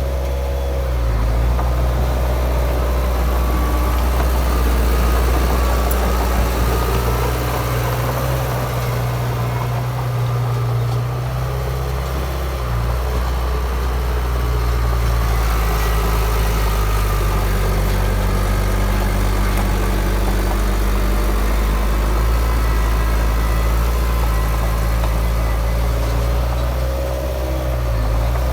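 Heavy diesel engine of a Komatsu D53P crawler bulldozer running at work, its engine note rising and falling a few times as the load changes.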